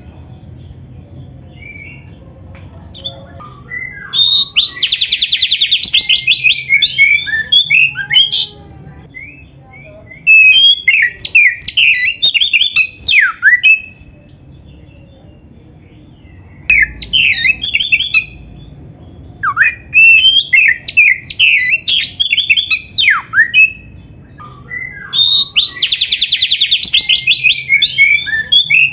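Oriental magpie-robin (kacer) singing loudly in bursts of varied, quickly changing phrases a few seconds long, with short pauses between them. A fast buzzy trill sounds in the first burst and again near the end. This is the full, mimic-rich song of a bird in top singing form (gacor, full isian).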